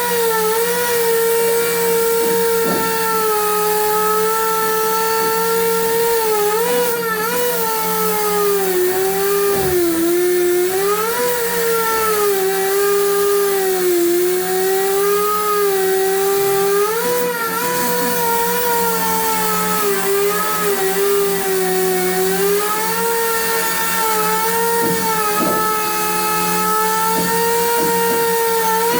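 Power tool motor running continuously under load, a steady whine whose pitch sags and recovers every few seconds as the load changes.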